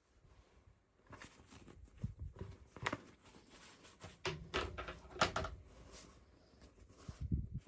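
Hands handling small toy packaging and doll pieces: a string of plastic clicks, taps and rustles with a few light thumps, starting about a second in.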